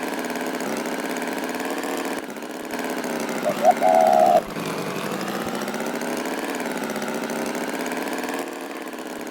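A tractor engine running steadily, its pitch wavering slowly up and down. About three and a half seconds in, a brief high call cuts in over it: two quick chirps and a held note, the loudest moment.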